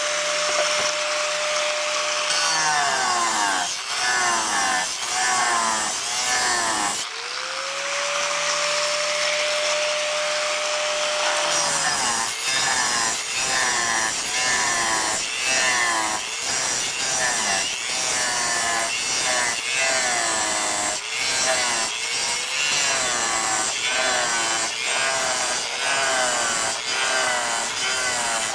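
Angle grinder with a dry-cut diamond blade cutting porcelain tile, its motor whining at full speed and dragging down in pitch each time the blade is plunged into the groove, then recovering. The dips come about once a second through the second half, with a gritty grinding noise over the whine.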